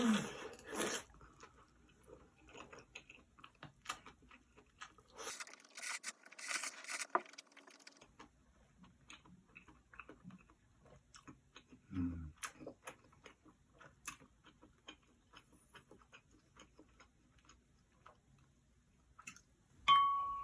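Close-miked eating sounds from a bowl of curry ramyeon with kimchi: a stretch of noodle slurping a few seconds in, many small chewing and crunching clicks, and metal utensils clinking against the bowl.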